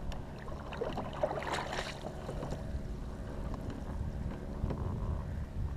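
Wind buffeting the microphone over a kayak on open water, a steady low rumble, with a few faint clicks about a second and a half in.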